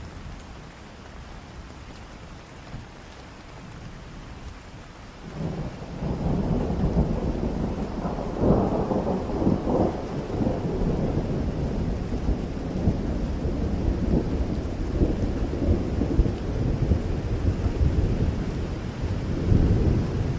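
Steady rain, joined about five seconds in by a long low roll of thunder that swells to its loudest cracks around eight to ten seconds and keeps rumbling on.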